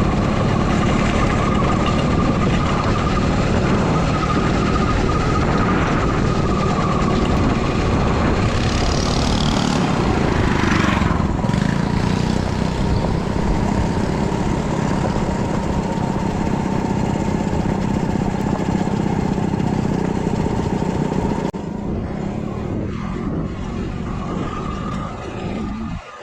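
Small mini bike engine running steadily, with a steady hum and whine over wind and road noise; the sound drops to a lower level about 21 seconds in.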